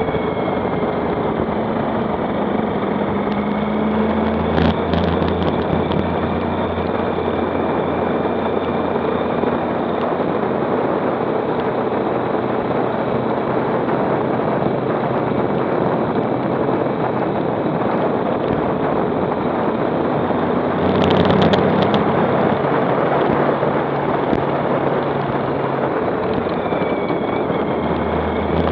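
Motorcycle running along at a steady road speed, its engine tone under a heavy, even rush of wind noise. There is a brief clatter about four seconds in, and a louder rustling burst around twenty-one seconds.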